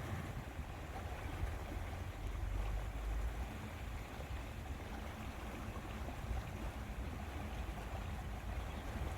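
Lakeside ambience: wind rumbling on the microphone over a steady wash of water.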